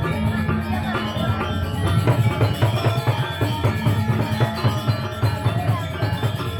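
Balinese gamelan music: bronze metallophones and drums playing a fast, busy rhythmic passage of rapid struck notes over a steady drum pulse.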